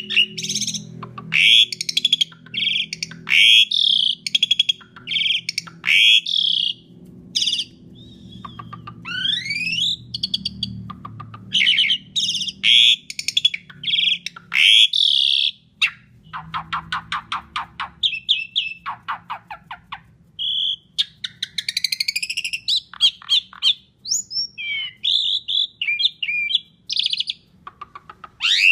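Asian pied starling (jalak suren) singing a continuous, varied song: short whistled and slurred notes that sweep up and down, harsh buzzy chatters, and, about halfway through, a fast rattling train of notes.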